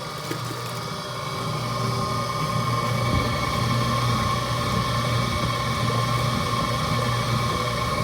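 Electric motor of a household laundry machine running with a steady hum, growing louder about a second and a half in and easing slightly near the end.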